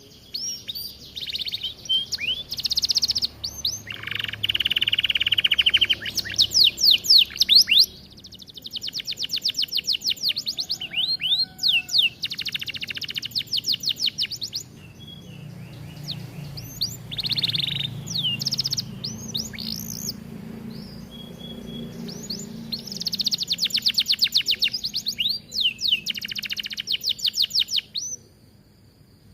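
Canary singing a long, varied song of rapid trills and rolls, phrase after phrase of fast repeated notes, and stopping shortly before the end.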